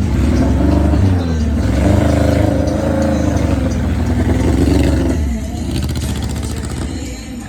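Car engine revving, its pitch rising and falling several times, then easing off about five seconds in.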